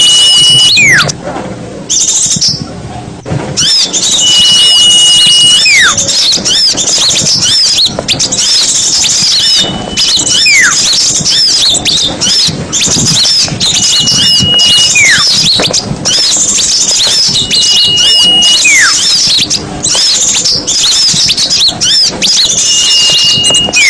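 Small-bird lure recording: dense, high chattering of many small songbirds, with a clear whistle that holds one note for about a second and then slides down in pitch, coming back about every four to five seconds.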